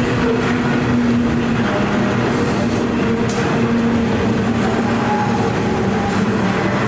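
Freight train running past: a steady, loud rumble with a droning hum held throughout.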